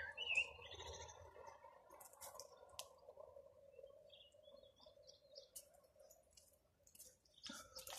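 Near silence, with a few faint short bird chirps and a faint steady hum underneath.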